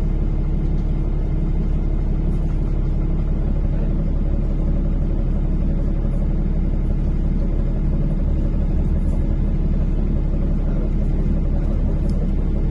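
NefAZ-5299 city bus driving between stops, heard from inside the passenger cabin: a steady, unbroken engine and road rumble.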